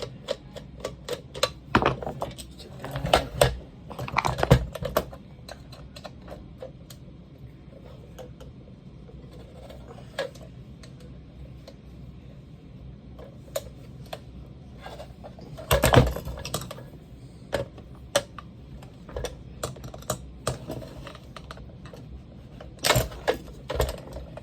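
Irregular light clicks and clatter of small metal parts and hand tools being handled while a pneumatic siding nailer is taken apart, with louder bunches of knocks at the start, in the middle and near the end.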